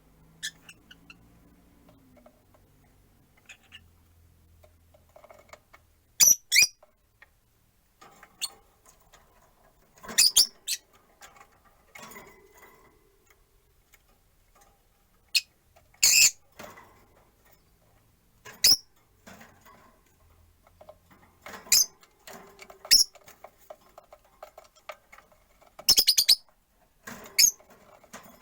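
Peach-faced lovebirds calling: about eight short, sharp, high-pitched chirps spread through, with quieter chatter in between.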